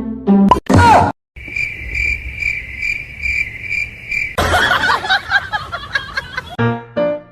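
Cricket-like chirping: a steady high trill pulsing about three times a second for about three seconds, after a short loud noisy burst. A rougher, noisy stretch follows before music comes back in near the end.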